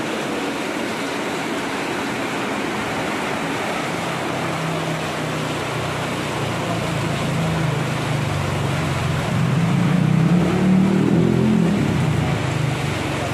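Heavy rain falling steadily. From about four seconds in, a motorbike engine comes closer and rides past, loudest near the end.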